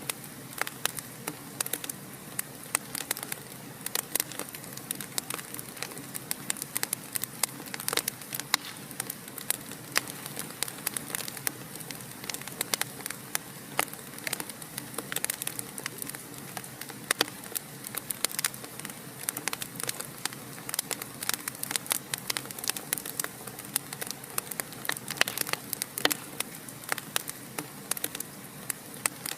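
Wood fire in a fireplace crackling steadily: a soft hiss under frequent sharp, irregular pops and snaps.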